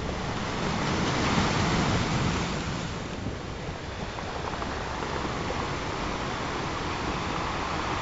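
Ocean waves washing on a shore. The surf swells and peaks about a second or two in, then falls back to a steady wash.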